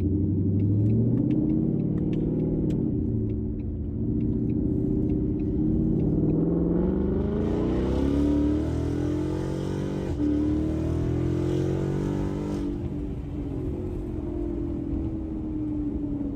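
2018 Ford Mustang GT's 5.0 L Coyote V8 through an MBRP race cat-back exhaust under hard acceleration to about 4,000 rpm. The pitch climbs and drops at each upshift of the 10-speed automatic. About 13 s in the driver eases off and the note settles into a steadier cruise.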